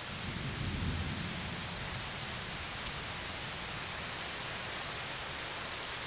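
Heavy rain falling steadily, an even hiss, with a low rumble that fades out about two seconds in.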